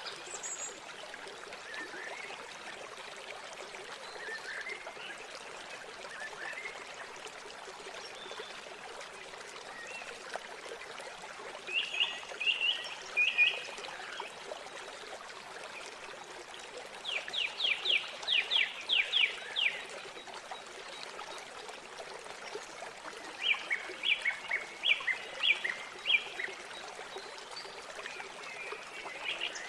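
River water flowing steadily, with small birds calling over it. There are scattered chirps, then a rapid run of about ten repeated notes in the middle, and another run of notes a few seconds later.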